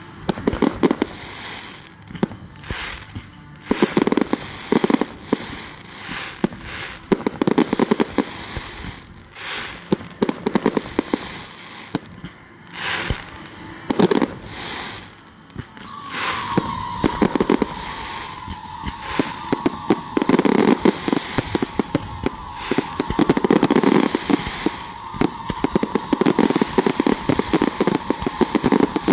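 Fireworks grand finale: rapid volleys of aerial shell bursts and crackling, coming thicker and almost without pause in the last third. About halfway through, a steady high tone starts and runs on under the bursts.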